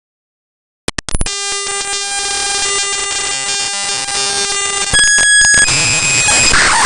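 Raw bytes of the Windows type library file mshtml.tlb played directly as audio. After about a second of silence come a few clicks, then a harsh buzzing drone of evenly spaced tones over hiss. About five seconds in it turns into louder, noisier static with high beeping tones.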